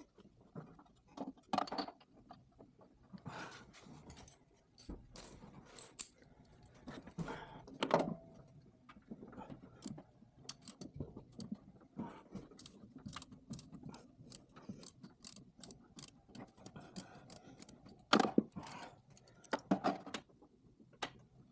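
Hand tools and small metal parts clinking, scraping and knocking irregularly during work on a VW Beetle's air-cooled engine, with a few louder knocks.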